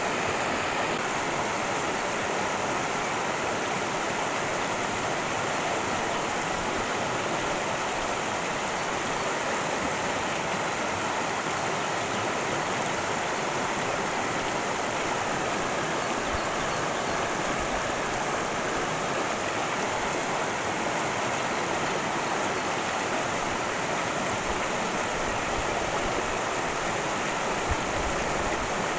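A cascading creek, its water rushing over rocks in a steady, unbroken flow.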